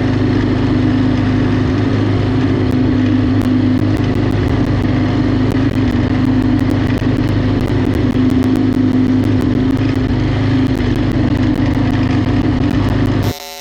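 Riding lawnmower engine running at a steady speed, a constant drone. It cuts off abruptly near the end as music starts.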